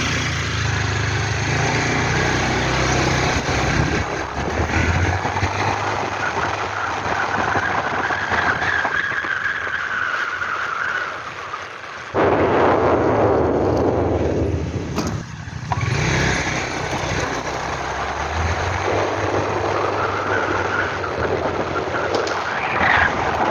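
A motor vehicle's engine running on the move, with steady road noise; about twelve seconds in a louder rushing noise comes in suddenly for about three seconds, then fades.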